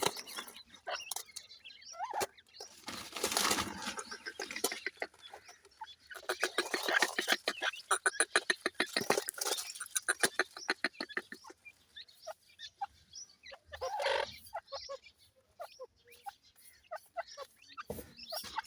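Partridge (teetar) chicks calling and clucking, with a fast run of clucks in the middle.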